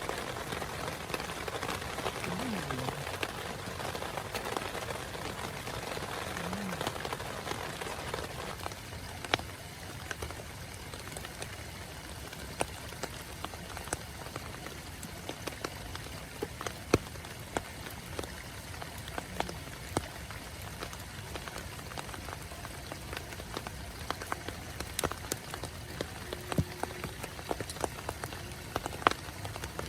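Steady rain, with many louder single drops ticking sharply throughout. The rain eases slightly after about eight seconds.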